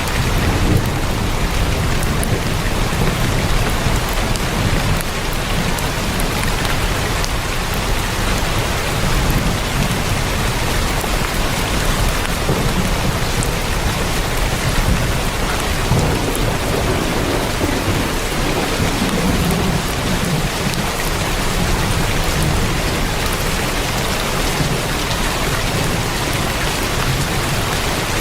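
Heavy rain drumming steadily on a tin roof, a dense even hiss with sharp drop ticks, under a low rumble that swells now and then, loudest past the middle.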